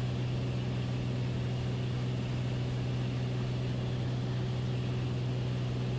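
Beechcraft Bonanza's piston engine and propeller droning steadily at a constant power setting, a low even hum with no change in pitch.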